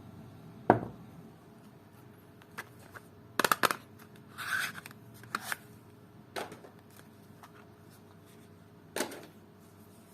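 Soap bars and their packaging handled during unwrapping: a sharp knock about a second in, a quick cluster of clicks and taps, a brief rustle of wrapper, then a few scattered taps.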